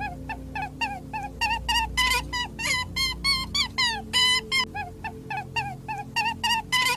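An animal giving a rapid series of short, high calls, each falling in pitch, about three or four a second, with a few louder calls among them.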